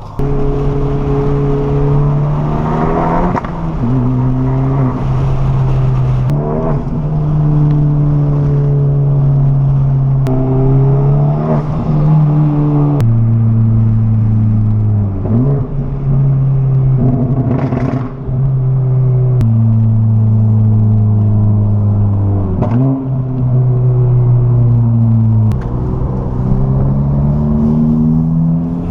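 Turbocharged Honda Civic Type R engine, tuned to about 400 hp, running under way. Its pitch holds steady for a few seconds at a time, steps up and down several times, and sweeps quickly up and down in a handful of short rev changes.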